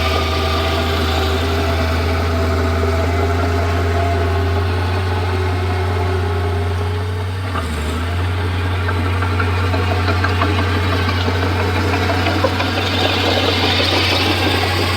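Komatsu D31P bulldozer's diesel engine running steadily, with a brief dip in its note a little past the middle and some light clatter in the later seconds.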